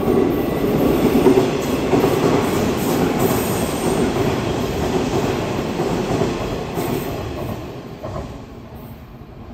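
Hanshin 1000 series electric train running past, wheels rumbling and clattering on the rails with some wheel squeal on the curved track. The sound dies down over the last couple of seconds as the train moves away.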